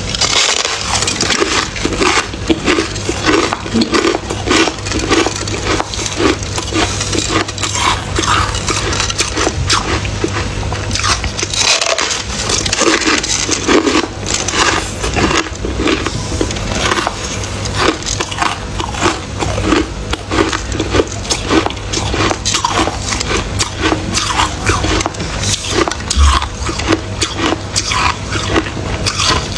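Freezer frost being chewed close to the microphone: continuous, irregular crunching bites with a steady low hum underneath.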